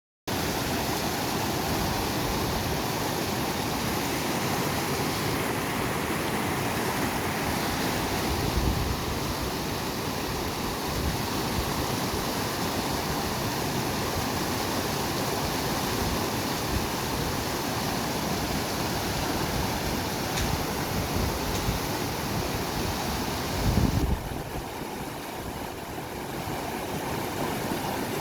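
Steady rush of a fast-flowing river swollen by monsoon rain, turning slightly duller and quieter about 24 seconds in.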